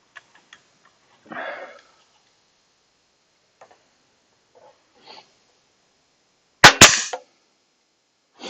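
Two sharp knocks in quick succession near the end, following a few faint clicks and a short breathy rustle.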